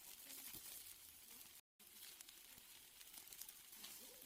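Steaks sizzling on a grill, a faint steady crackle of fine pops. The sound cuts out completely for a split second about one and a half seconds in.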